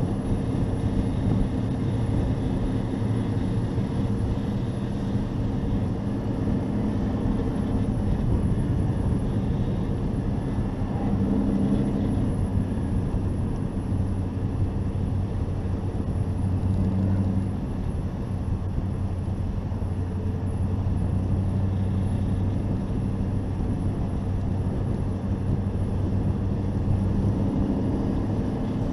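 Hobby-class race truck's engine running on track, picked up by an onboard GoPro, a steady drone with wind and road noise. The engine pitch shifts slightly a few times.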